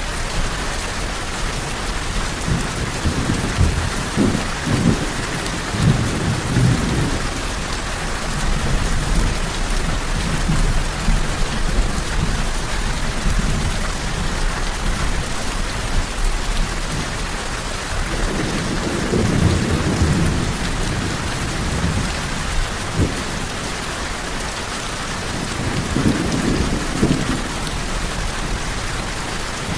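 Steady heavy rain with rumbles of thunder swelling and fading several times, the strongest roughly a fifth, two thirds and nine tenths of the way through.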